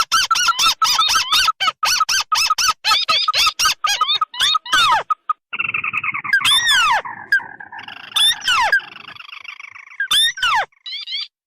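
Recorded crake calls played as a bird lure, combining ruddy-breasted crake and white-browed crake: a fast run of short repeated calls, about four a second, then a chattering trill about halfway through, with several loud downward-swooping notes.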